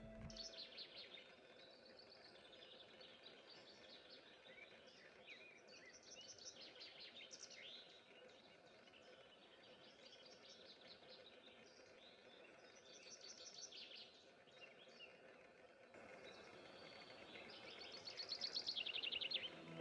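Faint songbirds singing in short, repeated high phrases over a light background hiss, with a fast trill of rapidly repeated notes near the end.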